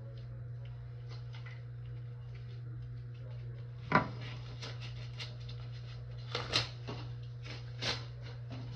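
Scattered sharp knocks and clinks of hard objects being handled over a steady low hum; the loudest knock is about four seconds in and two more come near the end.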